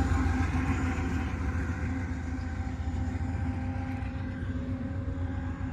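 Union Pacific freight train's distributed-power diesel locomotive passing, its engine droning with steady tones over the low rumble of the train, slowly growing fainter.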